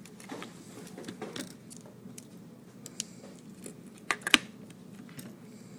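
Plastic clicks and rattles of a battery being fitted into a portable multimeter and its case being closed, with a few sharp snaps a little after four seconds in.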